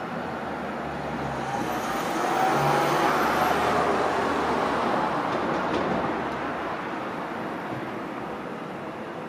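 Glacier Express train rolling slowly out of the station. Its running noise swells about two seconds in, then slowly fades as it draws away.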